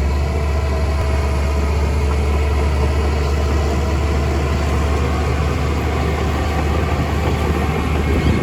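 Heavy machine's engine running steadily with a deep, even hum.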